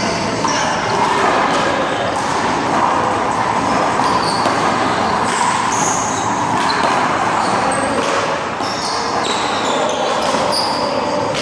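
One-wall handball rally: the small rubber ball smacked by hand against the wall and bouncing off the court, sharp smacks every second or two over a steady background noise.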